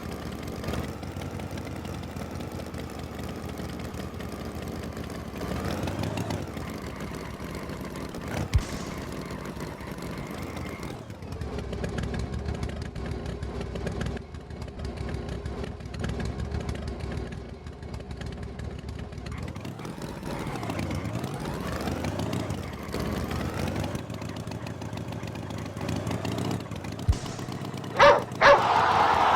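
A tractor engine running, its pitch rising and falling now and then as it revs. A few short sharp sounds come near the end.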